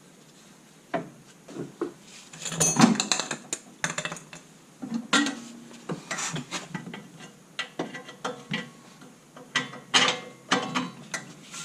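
Irregular metal clinks and clanks of hand tools and car suspension parts being handled, starting about a second in, some leaving a short metallic ring.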